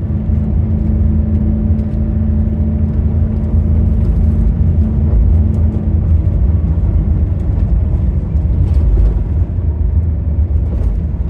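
Steady low rumble of a moving vehicle, with a faint engine hum that fades out about halfway through.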